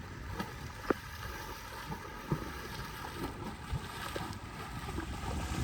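Outdoor ambience: a steady low rushing noise with a few faint clicks scattered through it.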